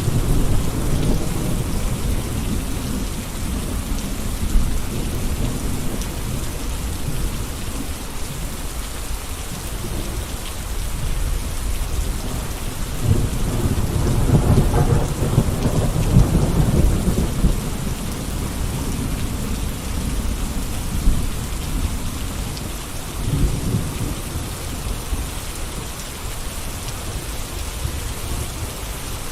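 Steady rain falling, an even hiss, with a deep rumble underneath that swells up about halfway through and again briefly later.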